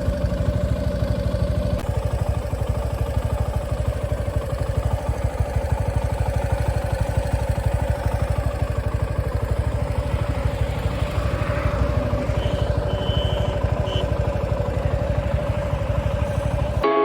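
Suzuki V-Strom SX 250's single-cylinder engine running steadily, with quick, even firing pulses.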